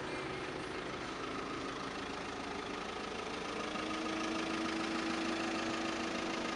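Volkswagen Passat's engine idling with a steady hum, a little louder from about halfway through.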